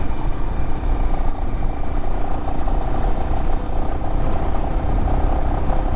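Adventure motorcycle's engine running steadily while the bike is ridden.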